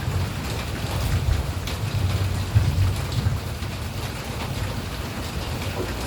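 Steady rain, with scattered drops ticking over a continuous deep low rumble.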